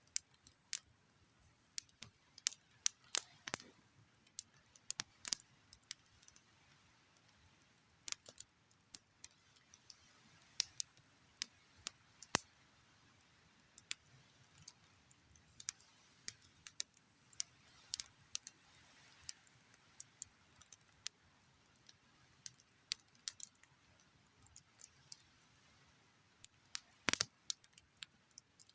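Wood campfire crackling: irregular sharp pops and snaps of burning wood, a few each second, over a faint steady hiss.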